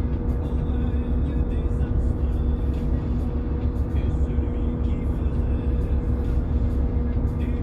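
A yacht's engine running with a steady low drone and a constant hum, with music playing over it.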